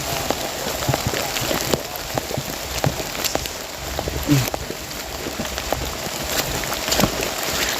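Heavy rain pouring steadily, with many sharp drop hits close by and a brief low sound about four seconds in.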